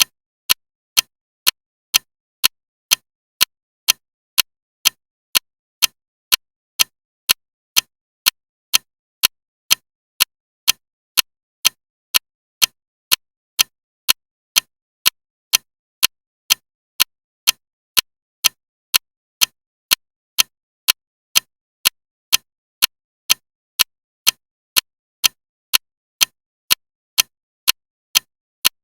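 Clock ticking loudly and evenly, about two sharp ticks a second with silence between them.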